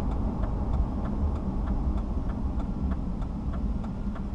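Steady engine and road noise inside a moving car's cabin, with an even ticking of about three clicks a second, typical of a turn signal.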